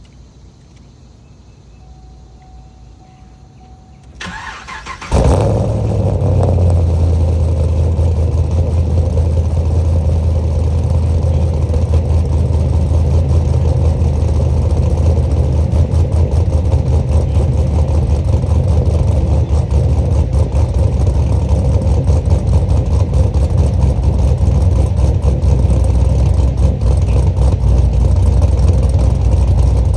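Chevrolet Camaro SS's cammed LS3 V8 cold-starting. The starter cranks briefly about four seconds in, the engine catches with a loud burst, then settles into a steady, choppy cold idle.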